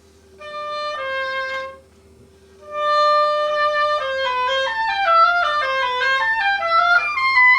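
An oboe is playing a phrase: two notes, a short pause, a long held note, then a quick run of falling and rising notes about four seconds in.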